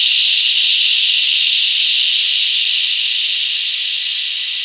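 Chorus of cicadas: a loud, steady, high-pitched drone that eases off slowly toward the end.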